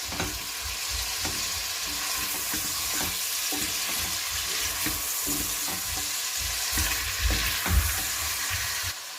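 Chicken pieces sizzling as they fry in hot oil and melted butter in a pan, with a spatula knocking and scraping now and then as they are stirred and turned. The sizzle runs steadily and eases slightly near the end.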